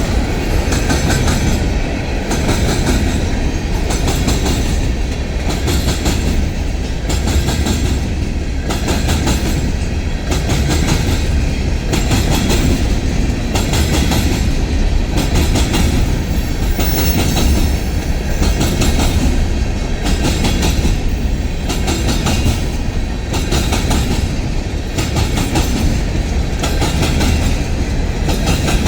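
Freight cars of a stone train rolling past close by: a steady rumble of steel wheels, with a regular clickety-clack as the wheel sets cross rail joints.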